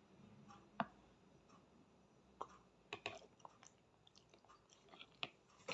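A small child chewing pasta: faint, scattered wet mouth clicks and smacks.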